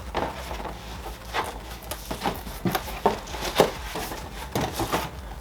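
Cardboard box and packaging being handled: a string of irregular short knocks and rustles, about ten in a few seconds.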